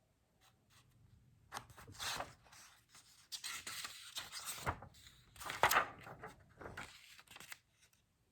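Book pages being handled and turned: a run of irregular paper rustles and scrapes starting about a second and a half in and dying away near the end.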